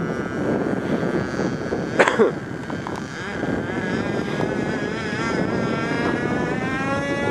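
RC model aircraft motor and propeller whining, its pitch wavering up and down as the throttle and distance change, over wind noise. A single sharp click comes about two seconds in.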